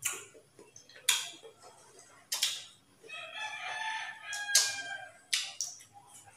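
Sharp, crisp crunches of raw green mango being bitten and chewed close to the microphone, five or so in all. Midway a rooster crows once in the background, a drawn-out call of about a second and a half.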